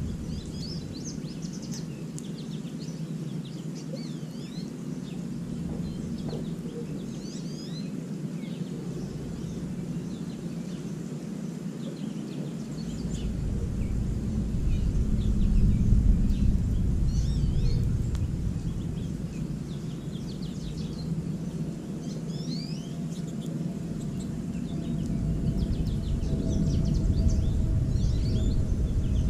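Small songbirds, finches such as goldfinches, chirping and twittering in many short high notes, over a steady low rumble that swells twice.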